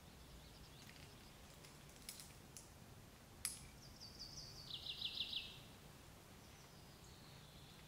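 A songbird singing one short phrase about halfway through: a few high notes that step down into a quick trill of about five notes. A few sharp clicks come just before it.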